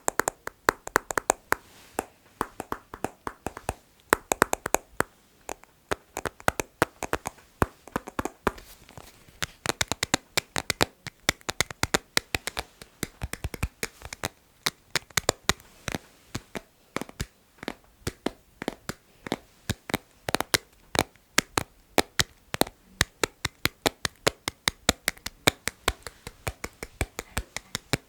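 Rhythmic tapping on assorted objects: sharp, quick taps, several a second, in runs with short gaps.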